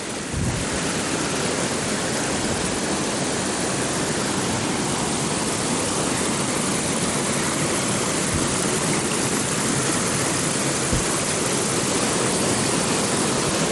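A waterfall pouring, close by: a steady, even rush of falling water.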